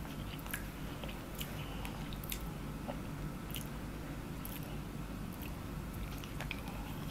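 Chewing and mouth sounds of someone eating fried rice, with scattered short soft clicks from the wooden spoon and food.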